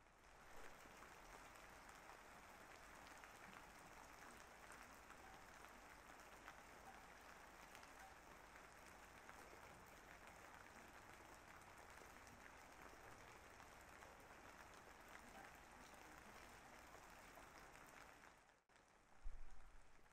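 Faint, steady rain: an even hiss of many fine drops. It cuts out abruptly near the end, followed by a short, loud low thump.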